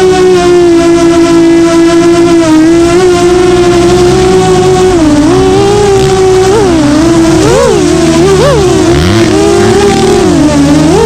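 FPV drone's motors and propellers whining at a steady pitch, then swooping up and down in pitch again and again through the second half as the throttle is punched and let off.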